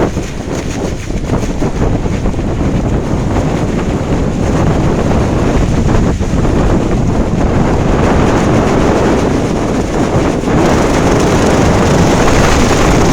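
Strong wind buffeting the microphone, a loud steady rush that grows brighter about ten and a half seconds in.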